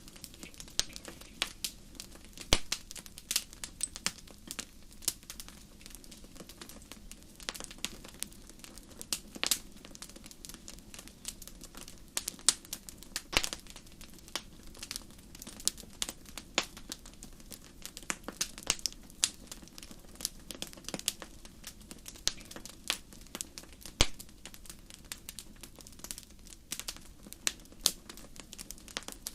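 Wood fire crackling, with frequent irregular sharp pops and snaps over a soft, steady background of burning.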